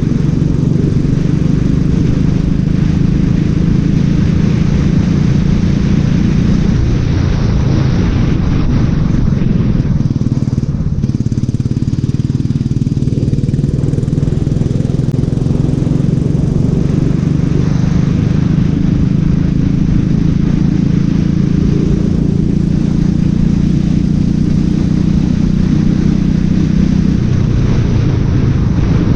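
Racing kart engine running hard on track, a loud, steady, buzzing note that holds its pitch most of the time, with a brief lull about ten seconds in.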